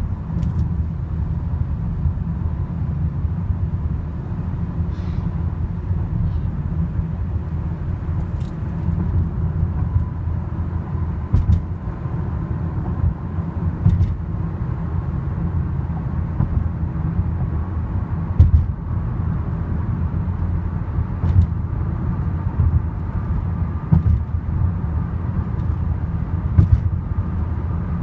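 Freight train hauled by GE diesel locomotives, a steady heavy rumble with scattered short knocks. A faint steady whine joins about ten seconds in.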